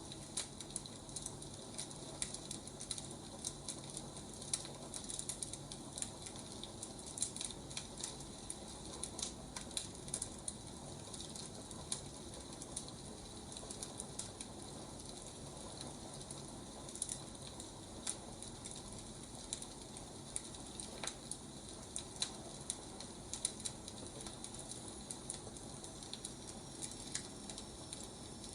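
Wood fire crackling: irregular small pops and snaps over a soft steady hiss.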